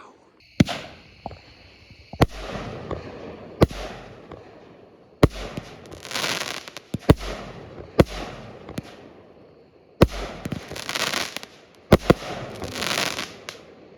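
Kripton 'Big Shark' 200-gram consumer firework cake firing its last shots: a run of sharp bangs about one to two seconds apart as shells launch and burst, with a crackling fizz from the chrysanthemum crackle effects after several of them.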